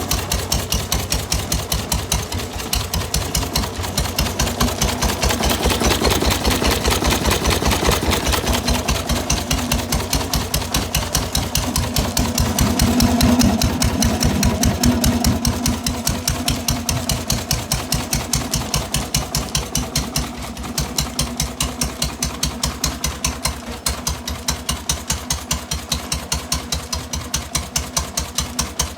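A Felix single-cylinder stationary engine of about 1917, rated about 4–5 hp with hopper (evaporative) water cooling, running steadily with an even, rapid beat of firing strokes. It is a little louder near the middle.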